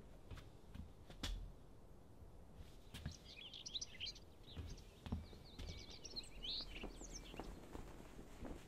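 Small bird chirping in two quick bursts of short notes over faint outdoor background noise, with a few soft knocks.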